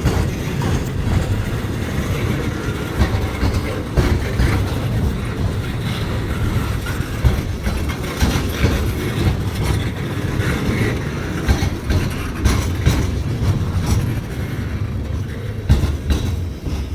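A train rolling past, a steady rumble of railcars with wheels clicking and knocking over rail joints; the sound drops away sharply at the very end.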